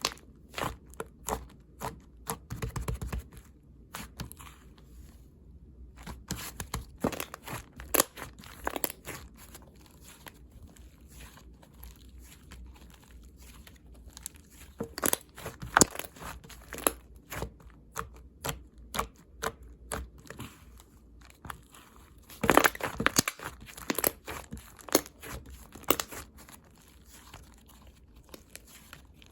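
Watery slime, made with a lot of water, being pressed and stretched by hand: irregular wet clicks and pops, with two louder flurries in the second half.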